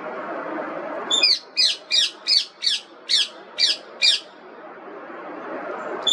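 Indian ringneck parakeet giving a quick run of about nine sharp, high-pitched squawks, about three a second, each dropping in pitch, starting about a second in, then one more squawk at the very end. A steady low background hiss runs underneath.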